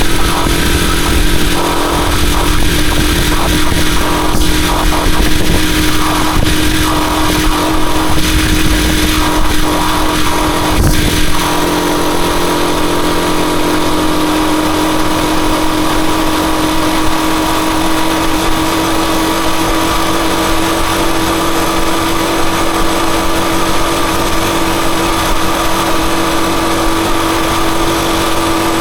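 Rusi Chariot 175 motorcycle engine running steadily while riding. Wind buffets the microphone with a low rumble for roughly the first eleven seconds, then eases off.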